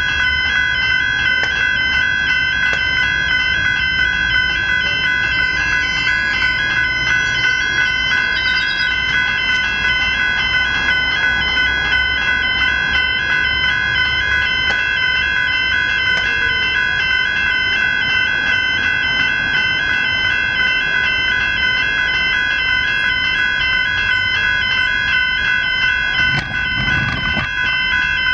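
Level crossing electronic bells (General Signals E-bells) ringing fast and steadily, warning that a train is approaching and the crossing is down.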